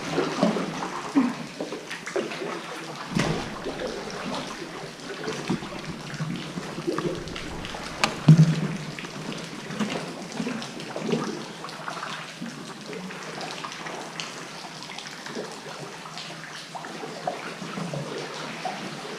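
Sea water splashing and lapping around a kayak, with irregular paddle splashes and short knocks.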